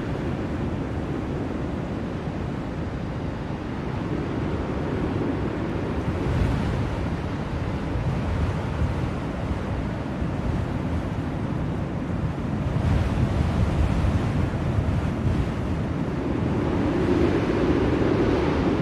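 Snowstorm wind blowing steadily, swelling in gusts a few times.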